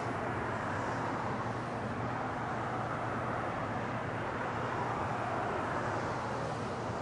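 Steady jet engine noise from an Airbus A340 airliner heard at a distance, an even roar with no sudden changes.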